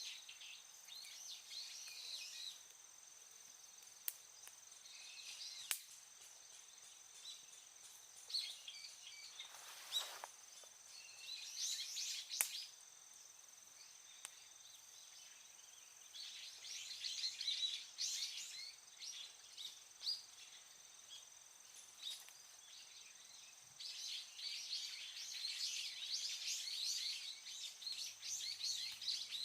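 Small birds chirping in repeated bouts of quick calls over a steady thin high tone, with a few sharp clicks scattered through.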